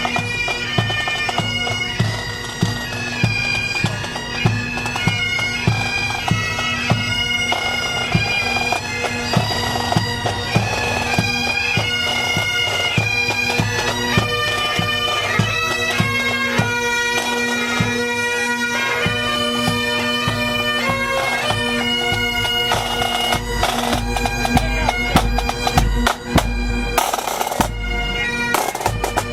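Bagpipes playing a tune over a steady drone, with regular drum beats. A low rumble comes up near the end.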